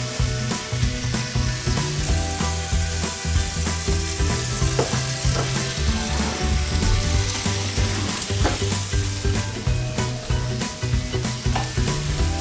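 Chicken thighs sizzling as they fry in a pan, a steady crackling hiss, over background music with a bass line.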